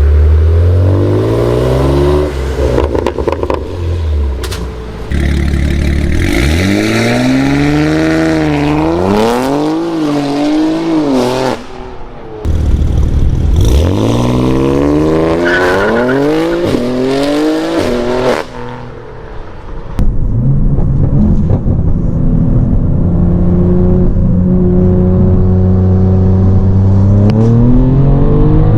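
BMW S58 twin-turbo inline-six in a G80 M3, breathing through a valved equal-length exhaust with catless downpipes, pulling hard. Its pitch climbs steeply and drops back at quick upshifts, over several pulls. From about two-thirds of the way in, it settles into a steadier drone that slowly rises.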